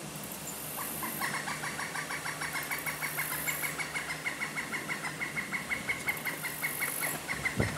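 A bird calling in a long, rapid series of short repeated clucking notes, about five a second, starting about a second in.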